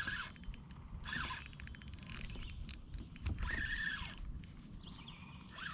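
Fishing reel clicking irregularly as a hooked fish is fought and reeled in on light line.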